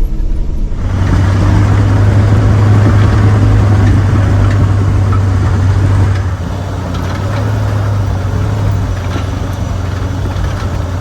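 Old tow truck driving on a dirt road: a steady engine drone with tyre and road noise, easing off somewhat about six seconds in.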